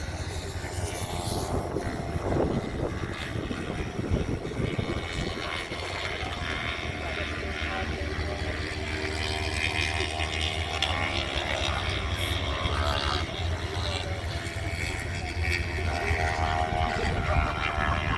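Racing motorcycles' engines running hard around the circuit, heard from a distance, the engine notes rising and falling as the bikes pass.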